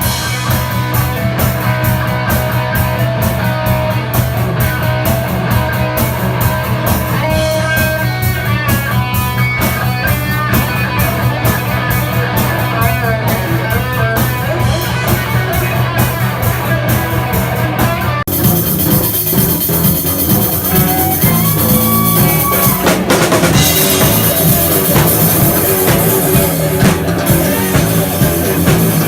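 Live rock band playing loud through a PA: guitars over a drum kit keeping a steady beat. About two-thirds of the way through the music changes suddenly into a fuller, denser section.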